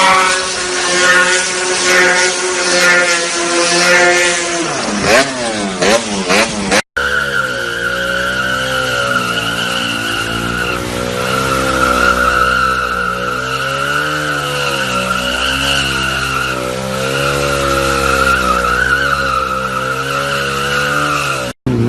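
Motorcycle engine held at high revs with tyres squealing. The revs swing sharply up and down a few seconds in; after a cut, a long steady tyre squeal runs over the wavering engine note.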